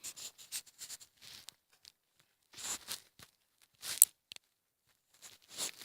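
Scattered soft rustles and crunches, with a sharp click about four seconds in. The ATV's engine is not running.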